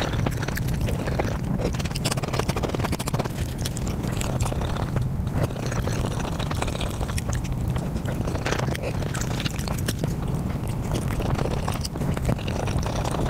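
Close-microphone eating sounds sped up five times: a dense, rapid run of chewing and biting clicks from flatbread dipped in curry, over a steady low hum.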